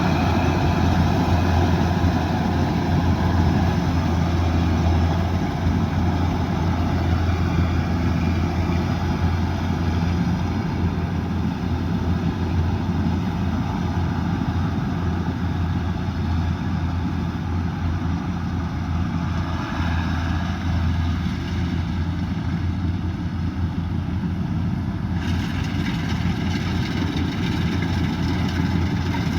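Kubota DC108X combine harvester's diesel engine running steadily with a deep, even hum, machinery noise over it. The sound turns abruptly brighter and hissier near the end.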